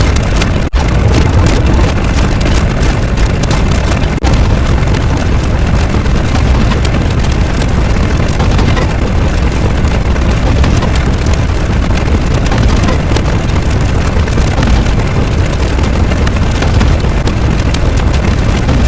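A loud, steady roar of noise, heaviest in the bass, broken by two very short drops, one about a second in and one about four seconds in.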